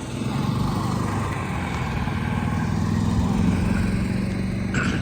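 An engine running steadily close by, with a low, even hum that swells at the start and eases off near the end.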